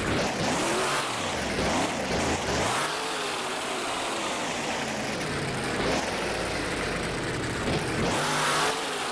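Monster truck engine revving hard, its pitch climbing and falling again and again, with bursts of full throttle near the start, about three seconds in, and near the end.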